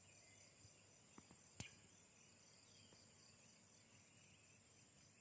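Near silence with a faint, steady, high-pitched chorus of insects, and one sharp click about a second and a half in.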